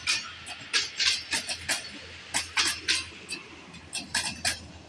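Passenger train coaches rolling past, with the wheels clacking and clinking irregularly over the rail joints above a steady low rumble. The clatter thins out and grows quieter near the end as the last coaches go by.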